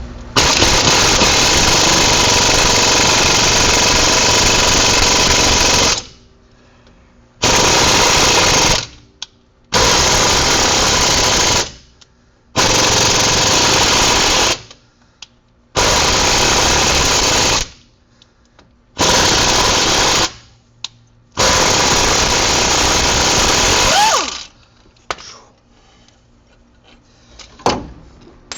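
Impact wrench hammering on a fastener at a Ram 1500's wheel hub: one long run of about six seconds, then six shorter bursts with short pauses between them.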